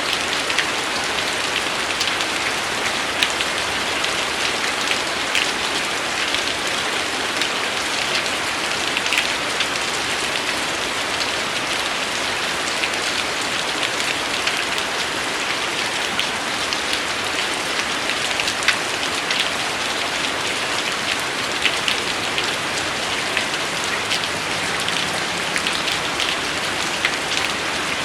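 Steady rain falling, a dense even hiss of rainfall with individual drops ticking sharply through it.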